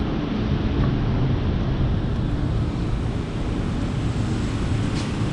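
A vehicle engine running steadily: an even low rumble with no change in speed, and a faint click near the end.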